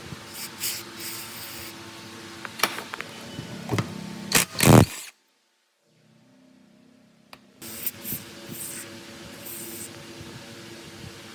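Metalwork repair sounds: scrapes and sharp knocks over a steady hum, with a cluster of loud knocks just before the sound cuts out abruptly for about a second.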